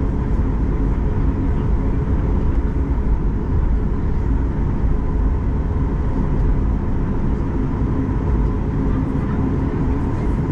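Cabin noise of a Boeing 737 MAX 8-200 with its CFM LEAP-1B engines running: a steady deep rumble with a faint steady whine over it.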